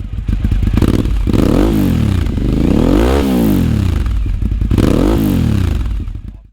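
Motorcycle engine being revved, blipped up and dropping back three times.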